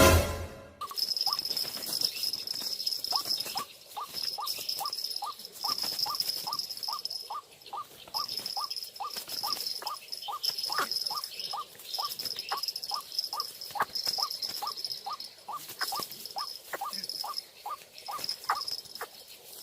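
White-breasted waterhen (ruak-ruak) calling, a monotonous string of short notes about two a second, with a steady high-pitched buzz breaking in and out behind it. A loud short knock comes right at the start.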